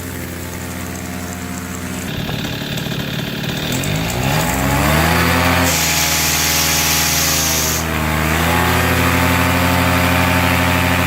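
AC Nitro 200's engine running with a buzz, revved up about four seconds in, held high for a couple of seconds with a sharper hiss on top, then let back down to a steady run near eight seconds. The buzzing is the noise the owner is showing up.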